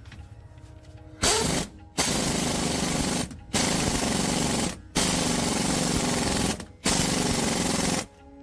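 Loud power tool working in bursts on the metal of a truck axle housing: a short burst, then four longer ones of about one to one and a half seconds each, with brief pauses between.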